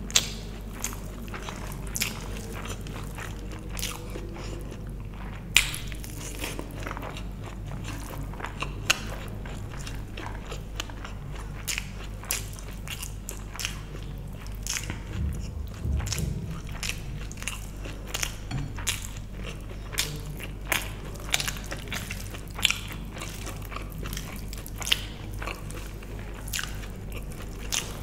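Close-miked eating sounds of a person chewing vegetable biryani: wet chewing, lip smacks and mouth clicks coming irregularly, a few much louder than the rest.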